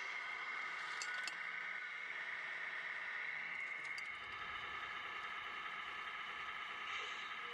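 Tamiya Grand Hauler RC truck running: a steady whine made of several even tones, with a few sharp clicks about a second in and again near four seconds.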